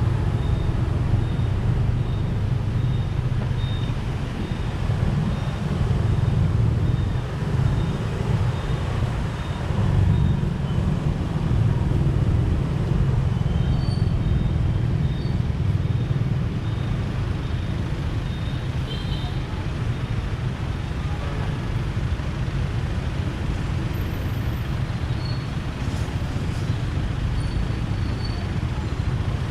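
Steady low rumble of a motorbike riding through city traffic, engine and road noise with the traffic around it.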